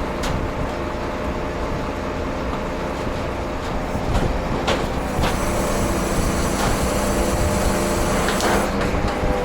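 Scania truck engine running steadily, with a few sharp clicks and knocks.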